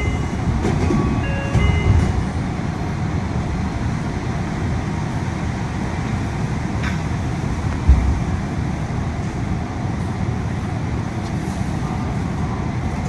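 Cabin noise inside a Yui Rail monorail car: a steady low rumble of the train running, mixed with air-conditioning noise. A few short electronic chime notes sound in the first couple of seconds, and a brief thump comes about eight seconds in.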